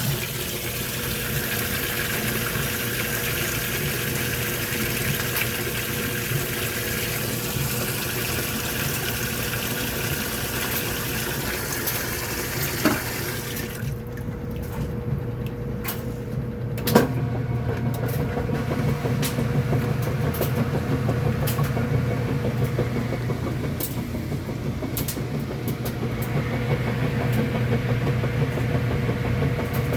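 Kenmore washing machine filling with a steady rush of water. About halfway through, the inflow stops with a knock and a steady low motor hum carries on.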